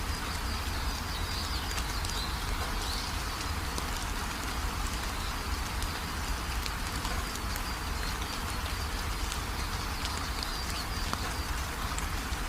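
Steady rain falling, with many small drop ticks and faint high bird chirps a couple of times.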